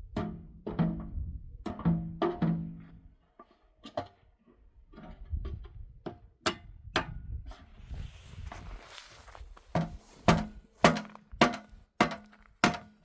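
A series of hard knocks, about fifteen irregular blows on something solid, each with a short low ringing note, coming faster and harder near the end. A brief hissing scrape comes about eight seconds in.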